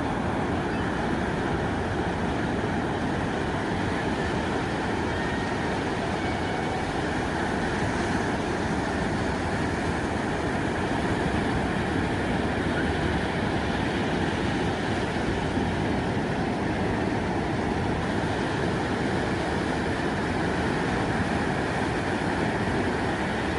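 Steady, even roar of ocean surf breaking on the beach, with no distinct individual wave crashes.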